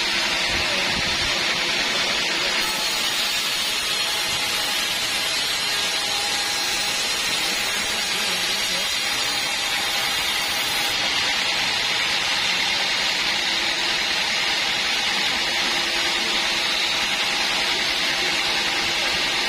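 Sawmill band saw running with a steady, even hiss-like noise that stays at one level throughout.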